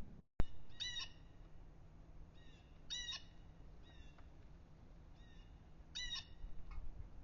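A bird calling at a feeder: three short, clear calls with ringing overtones, about three seconds apart, with fainter calls between them. A sharp click comes just after the start.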